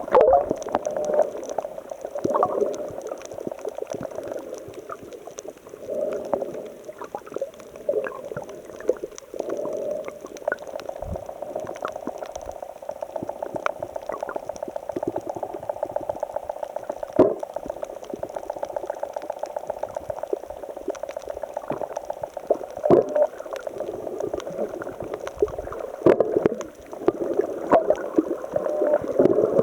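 Seawater surging and gurgling among shoreline rocks and breakwater blocks, with many small splashes and knocks. Through the middle part there is a rapid, even pulsing.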